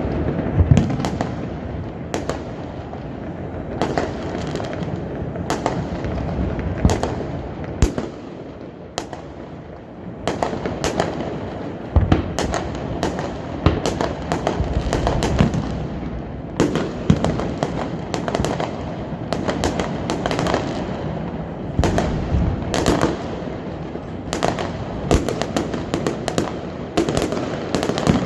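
Aerial fireworks display: a continuous run of shell bursts and crackling, with many sharp bangs overlapping a steady rumble, briefly thinner about eight to ten seconds in.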